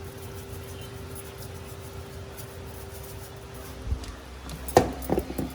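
Steady low kitchen hum, then a few sharp knocks and clinks near the end as seasoning containers are handled and set down on the counter.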